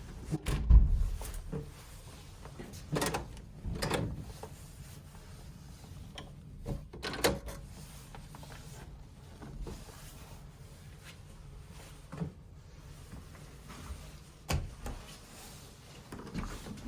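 A series of separate knocks and clicks from room fittings being opened, closed and handled, the loudest a low thump about a second in.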